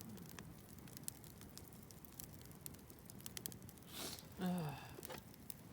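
Campfire crackling, with many small sharp pops scattered irregularly throughout. A man gives a short exclamation near the end.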